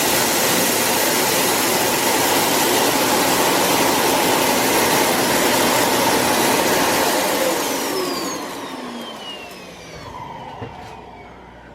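iRobot Roomba s9+ Clean Base emptying the robot's dustbin: its suction motor runs with a loud, steady rush of air, then spins down about eight seconds in, a whine falling in pitch as it stops.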